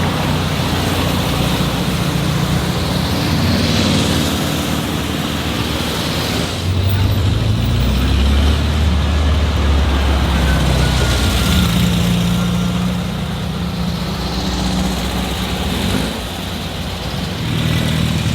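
Old cars in a parade driving past with their engines running. The engine and road noise swells twice as cars pass close, about four seconds in and again later.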